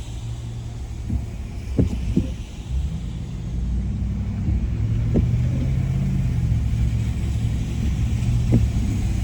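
Car driving, heard from inside the cabin: a steady low engine and road rumble that grows louder after about two and a half seconds, with a few short knocks.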